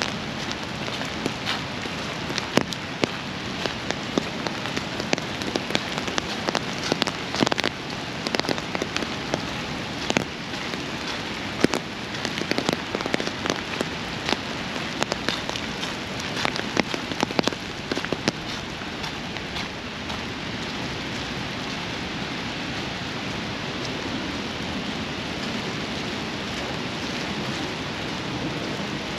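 Steady rain falling, with many sharp, close drop taps through the first two-thirds that give way to an even hiss.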